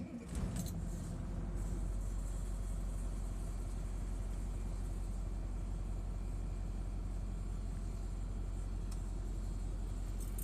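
A 1984 Blue Bird Wanderlodge motorhome's engine starting up and settling into a steady, even idle.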